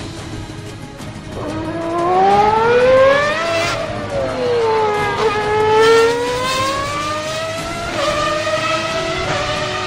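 A vehicle engine revving: its pitch climbs for about two seconds, falls away, then climbs again and settles into a steadier note near the end.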